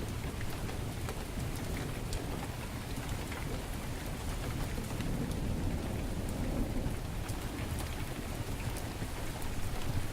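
Heavy rain falling steadily, with scattered sharp crackles from a wood fire in a fireplace and a low rumble of thunder swelling about halfway through.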